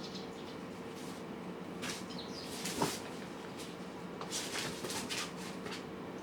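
Cats and kittens eating: scattered small clicks and crunching, with one louder click nearly three seconds in, over a steady low hum.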